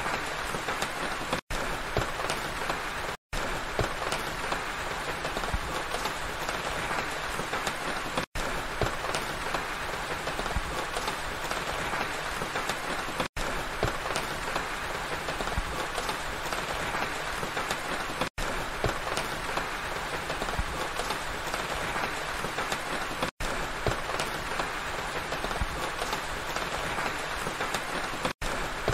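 Steady rain falling, an even rushing patter broken by a brief cut to silence about every five seconds.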